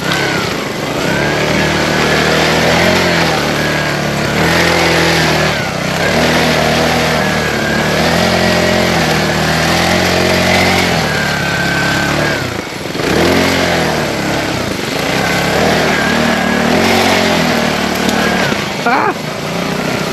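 Mini bike's small engine revving up and down unevenly, its pitch stepping between levels again and again, with a brief drop about two-thirds of the way through, as the bike labours through mud.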